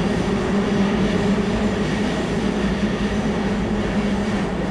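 Ome Line commuter train running steadily between stations, a continuous rumble of wheels and traction motors with a steady low hum, heard from inside the carriage.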